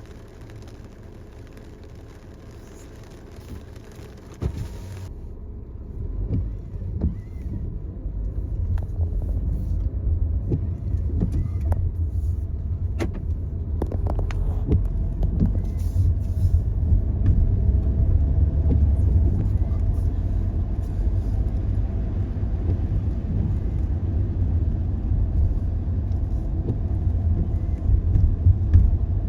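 Low, steady rumble of a car being driven, the road and engine noise building over the first several seconds and then holding, with scattered sharp ticks on top.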